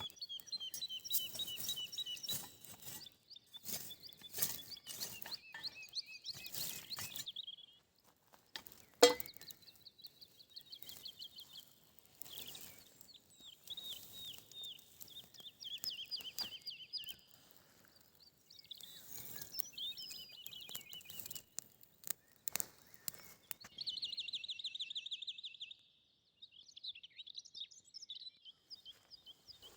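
Songbirds singing in repeated fast trilling phrases, with scattered clicks and crackles in the first several seconds and one sharp knock about nine seconds in.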